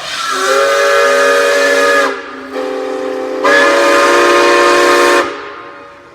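Steam whistle of the Rx-class steam locomotive Rx224, a chord of several steady notes, sounded loudly twice: a long blast of about two seconds, then a softer sounding and a second long loud blast that cuts off about five seconds in.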